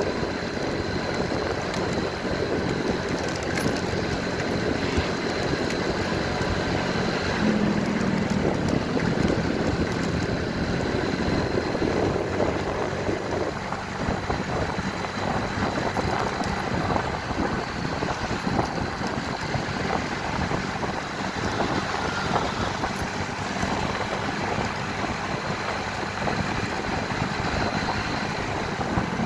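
Motorcycle engine running steadily while riding, under a constant rushing noise of wind and road.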